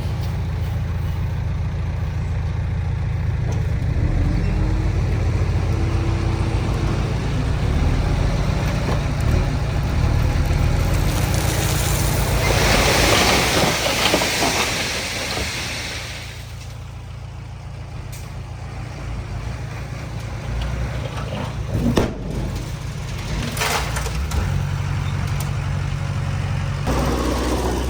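Diesel engines of a bulldozer and dump truck running steadily, with a broad hiss lasting a few seconds about halfway through and a single sharp knock later on.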